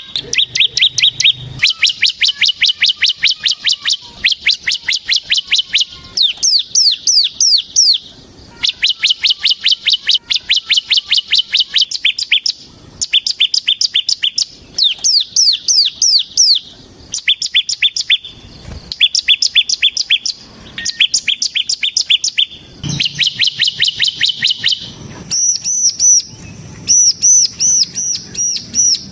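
Ciblek semi (bar-winged prinia) singing its rapid drill-like 'ngebren' song. It gives long trills of quick repeated high notes in bursts of a second or two with brief pauses between them, and a higher looping phrase near the end.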